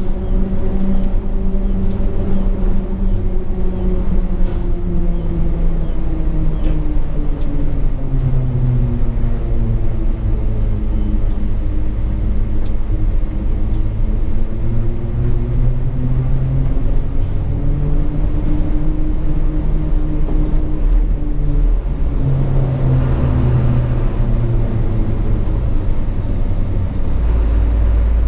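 Hino 500 FM 260 JD truck's six-cylinder diesel engine heard from inside the cab while driving, its note falling and rising with engine speed, with a brief drop near the end before climbing again. A faint regular ticking sounds in the first few seconds.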